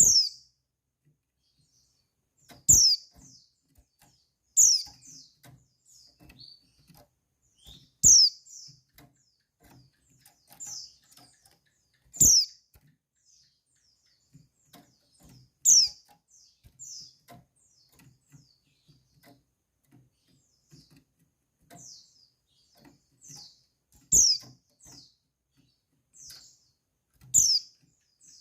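Female white-eye (pleci) calling: short, high chirps that slide quickly downward, repeated every few seconds with fainter chirps in between. Several of the loudest calls come with a soft low knock.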